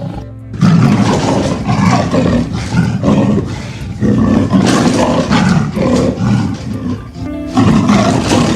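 A big cat roaring and growling in a run of loud, rough calls that start about half a second in, with a short break near the end, over background music.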